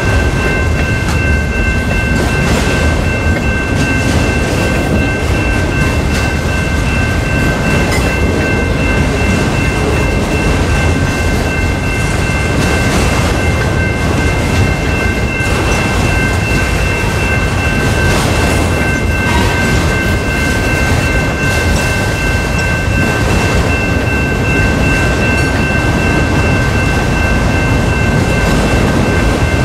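Freight train of autorack cars rolling past at a grade crossing: a steady rumble of wheels on rail with scattered clicks at the rail joints. Over it, a crossing bell rings as a steady high tone.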